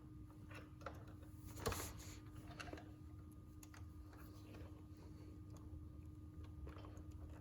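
Faint scattered clicks and taps of hands working a battery and its wire into a scooter's tight battery compartment, with one louder knock a little under two seconds in, over a faint steady hum.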